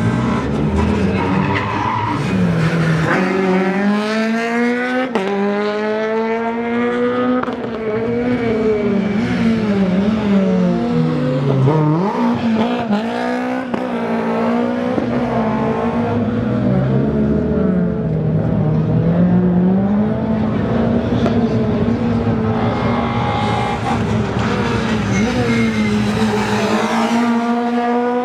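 Rally car engines at full throttle: revs climb repeatedly with gear changes in steps, ease off and pick up again, while another engine holds a steadier, wavering note underneath.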